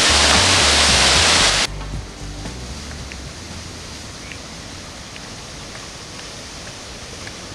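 Loud steady rush of a waterfall with music low underneath, cutting off abruptly about one and a half seconds in to a much softer, steady rush of falling water.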